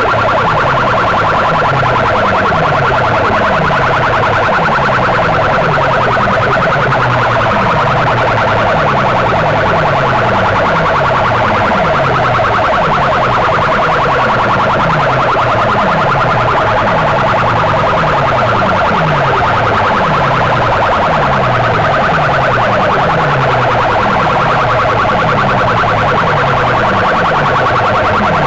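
DJ box sound system blasting a competition track at full volume: a dense, steady, siren-like high tone over deep bass sweeps that fall in pitch about once a second.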